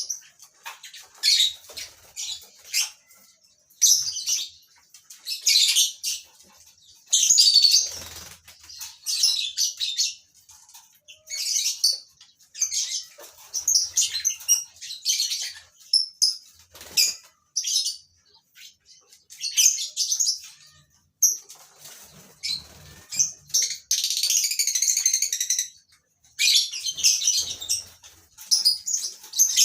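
A colony of lovebirds calling in shrill, chattering bursts, with flutters of wings now and then. Late on, one longer buzzy call lasts about two seconds.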